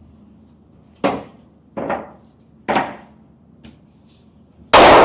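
Handgun shots at a shooting range: three sharp reports about a second apart, then a much louder, echoing shot near the end.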